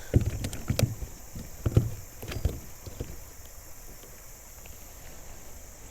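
Irregular knocks and taps of gear and a landed fish being handled in a kayak, a dozen or so sharp hits in the first two and a half seconds, then quieter.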